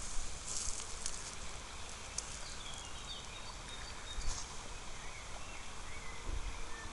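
Outdoor garden background: a few short, faint bird chirps now and then over a steady low wind rumble on the microphone.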